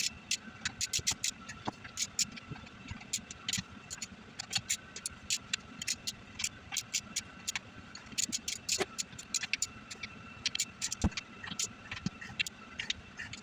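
Ratchet wrench clicking in short, irregular runs of sharp clicks, as bolts are run in on the truck's rear differential cover.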